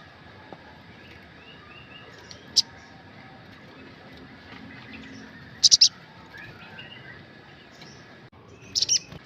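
Olive-backed sunbird (sriganti) calling in sharp, high chirps: a single chirp, then a quick burst of three or four about halfway through, and another burst near the end, with fainter twittering between.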